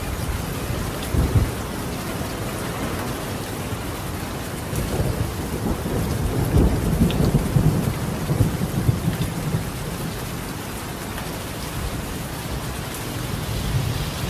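Steady rain falling on a tiled roof, with thunder rumbling. A short rumble comes about a second in, a longer, stronger roll swells from about five to ten seconds, and a weaker one comes near the end.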